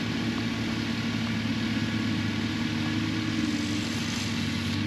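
Excavator's diesel engine running steadily, with no change in pitch or load.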